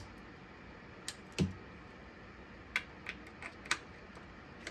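A few sharp, irregularly spaced clicks and one dull knock from hand tools and engine parts being worked while something is tightened under the hood, with a small cluster of clicks past the middle.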